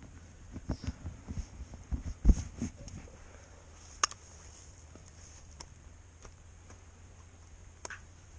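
A run of low thumps and knocks over the first three seconds, the loudest about two seconds in, then a sharp single click about four seconds in and a fainter click near the end.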